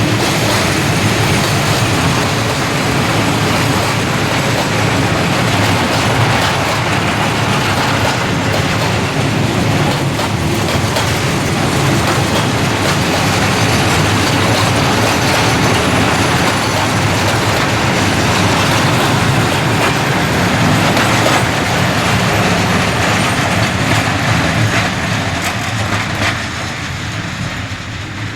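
Loaded coal wagons of a freight train rolling past, with a steady rumble and the clatter of wheels over the rail joints, dying away near the end.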